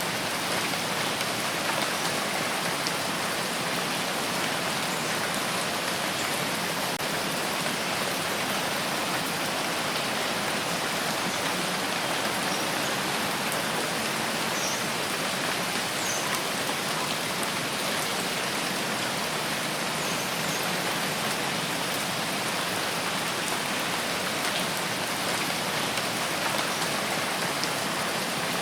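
Steady heavy rain falling on surfaces, an even hiss with faint scattered drop ticks.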